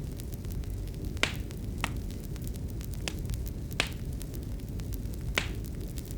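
Wood fire crackling in a fireplace: a steady low rumble with irregular small ticks and about five sharper pops spread through.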